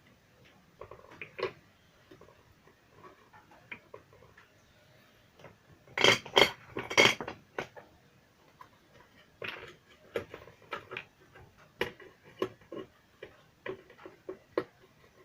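Small hard objects clicking and clattering as they are handled, in scattered taps. A cluster of four louder clicks comes about six to seven seconds in.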